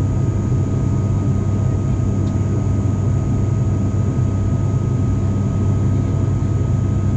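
Cabin drone of an ATR 42-500's two Pratt & Whitney PW127 turboprops in flight: a steady hum with a strong low propeller tone and fainter steady tones above it, unchanging throughout.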